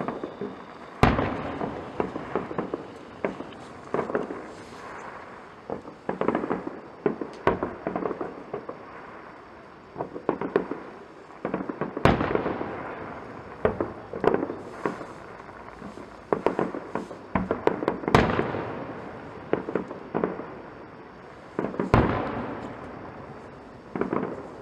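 Fireworks display: a steady run of shell bursts, with sharp bangs followed by rolling echoes and crackle. The loudest bangs come about a second in, at about twelve seconds, about eighteen seconds and about twenty-two seconds.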